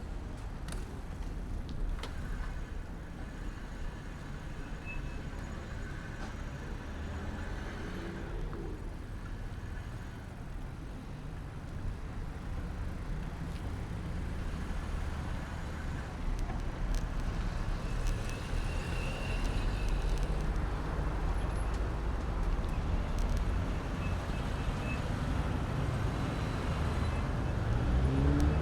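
City street traffic with a steady low rumble of road and wind noise, picked up by a camera mounted on a bicycle's handlebar. The noise grows louder over the second half.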